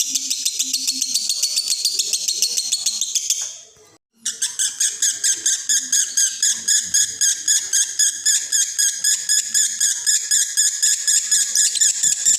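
Male lovebird in breeding condition giving its long unbroken 'konslet' chatter: a rapid, high chirping run at about five chirps a second. The song fades out a little past three seconds in and, after a brief silence, starts again abruptly about four seconds in.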